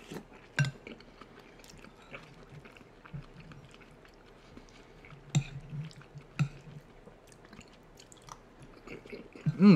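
Close-miked chewing of soft stew, with small wet mouth clicks and a few sharper smacks. Near the end comes a short voiced sound, the loudest moment.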